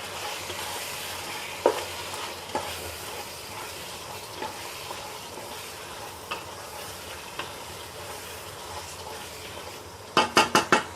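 Chicken and tomato biryani masala sizzling in the pot as it is stirred, with scattered light scrapes and clicks. Near the end, a quick run of about five sharp knocks.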